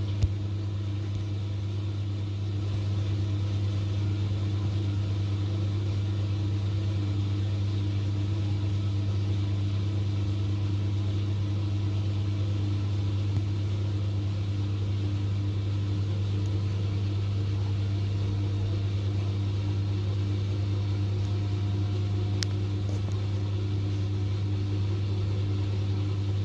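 LG 10 kg direct-drive top-loading washing machine on its spin cycle, running with a steady, even hum. With its broken drive gear replaced, it is very quiet and free of the earlier grinding noise.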